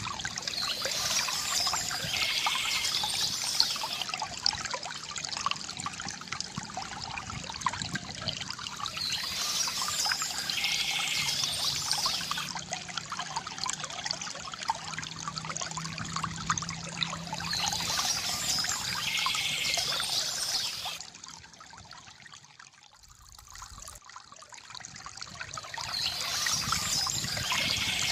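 Water trickling and pouring from a bamboo fountain. It swells and eases in a cycle that repeats about every nine seconds, and goes quieter for a few seconds about three quarters of the way through.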